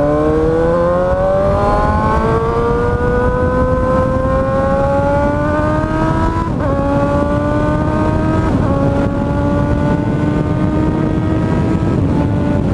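Motorcycle engine pulling under acceleration, its pitch climbing steadily, with two upshifts past the middle where the pitch drops before rising again. It runs loud through an Akrapovič exhaust with the end tip removed.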